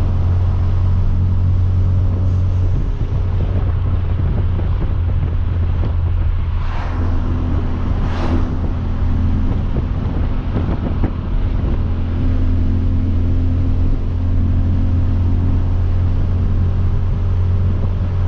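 Hyundai Veloster Turbo's turbocharged 1.6-litre four-cylinder with a catless downpipe, heard from inside the cabin with the windows down, droning steadily at a cruise over road and wind noise. Two brief whooshes come near the middle.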